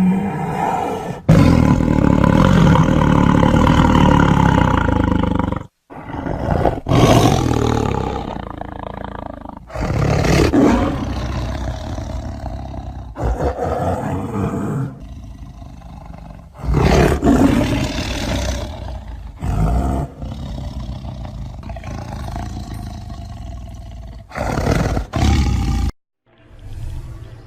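Tiger roaring and growling in a series of deep, rough calls, in separately edited clips that cut off abruptly several times.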